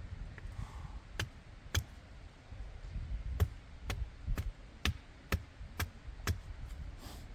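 A series of sharp knocks: two single ones, then a steady run of about two a second, over a low rumble.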